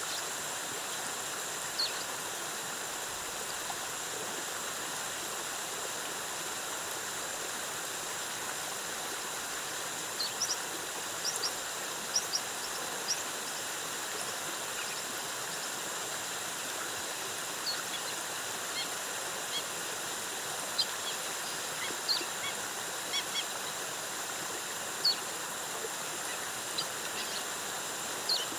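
Steady rush of a rainforest waterfall, with short high bird chirps scattered over it, clustering around the middle and toward the end.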